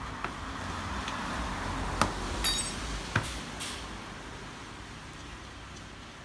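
A few sharp metal knocks and a ringing metallic clink from hand tools or bike parts being handled at a roadside repair, over a steady background rumble.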